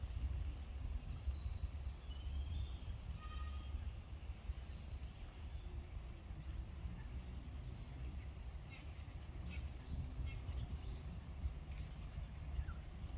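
Faint, short sparrow chirps scattered here and there over a steady low rumble of background noise.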